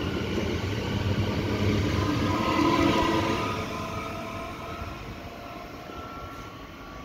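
Red electric regional multiple-unit train leaving the station: wheel rumble with a steady motor whine in a few tones, loudest about three seconds in, then fading as the train draws away down the line.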